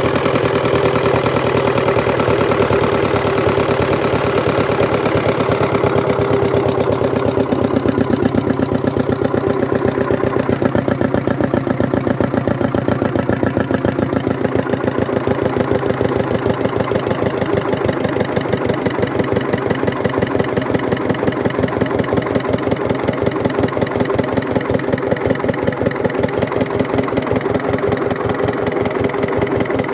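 Hatz diesel engine running steadily with a fast, even chugging. Its sharper upper clatter eases off about six to seven seconds in, and it runs on evenly after that.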